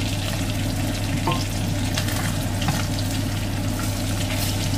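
Salmon fillets sizzling and crackling as they fry in an aluminium pan, with a spatula moving among them. A kitchen extractor fan hums steadily underneath.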